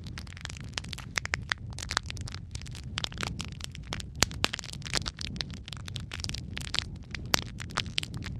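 Wood logs burning in a fireplace: a steady low rumble of the fire with irregular crackles and sharp pops, two of them louder, a little past the middle and near the end.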